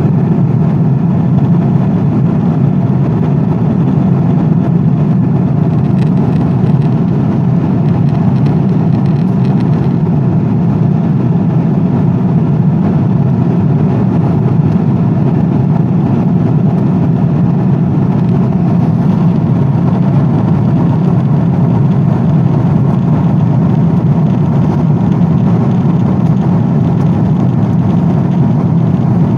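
Steady drone of an airplane in flight, an even rumbling noise weighted to the low end that does not change.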